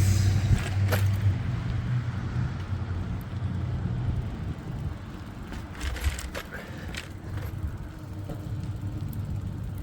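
Road traffic: a vehicle's engine hum that fades after about four seconds, with a few sharp clicks and rattles from the bicycle ride.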